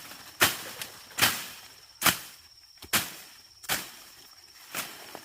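Footsteps at a steady walking pace, seven sharp steps about 0.8 s apart, with a steady high chirring of insects behind.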